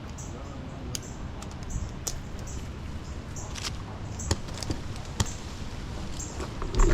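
Steady low rumble of wind, with irregular sharp clicks and knocks about once a second and a louder knock near the end.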